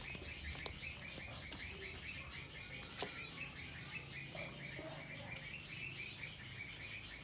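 A small bird chirping in a fast, continuous run of high pulses, with a few sharp metallic clicks as the wire cage panel is handled, the loudest about three seconds in.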